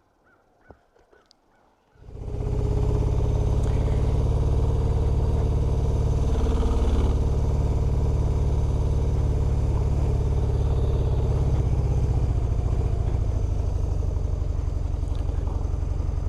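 BMW R1100RT motorcycle's boxer-twin engine running steadily, coming in abruptly about two seconds in after a few faint clicks.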